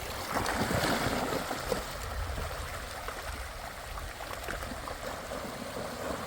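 Steady rush of flowing creek water, a little louder in the first couple of seconds.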